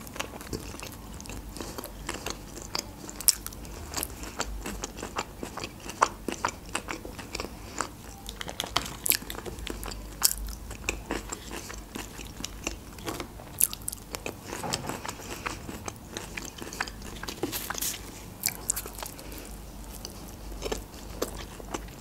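Close-up chewing and biting of a flatbread wrap and french fries: many irregular sharp mouth clicks and smacks throughout.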